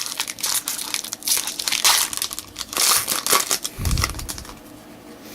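Trading card pack wrapper being torn open and crinkled by hand, in irregular crackling bursts, with a short low thud about four seconds in before it quiets.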